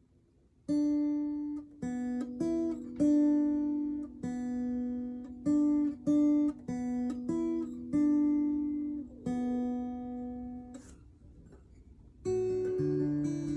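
Acoustic guitar playing a slow melody one plucked note at a time, each note left to ring and fade. After a short pause near the end, fuller picked chords with a bass line begin.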